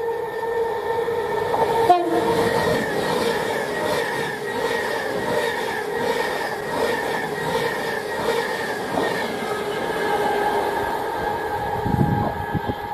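A train passing on the nearby line, a steady rushing rumble of wheels on rails, with a low thump near the end.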